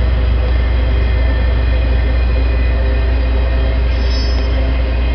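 Freight train of empty intermodal spine cars rolling past: a steady, loud rumble of wheels on the rails with thin ringing tones over it, and a brief high squeal about four seconds in.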